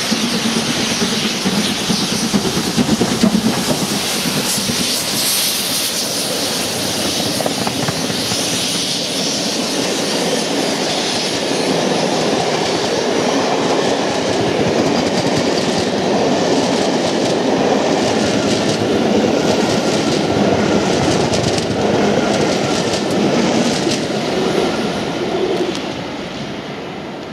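A passenger train of coaches passing close by at speed: a sustained rush with wheels clattering over the rail joints. It fades near the end as the last coach goes by.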